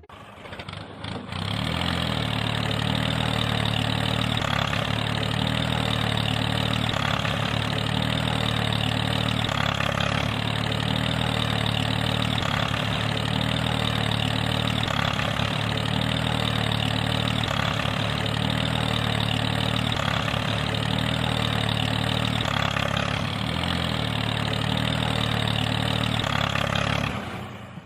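A small engine running steadily, starting about a second in.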